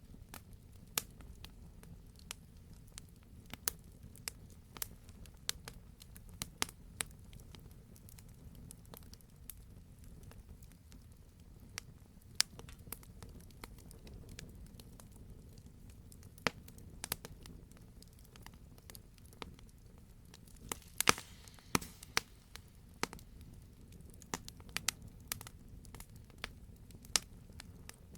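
Wood fire burning in a fireplace: a low steady rumble of flame with irregular sharp crackles and pops, a quick cluster of louder pops a little past two-thirds of the way through.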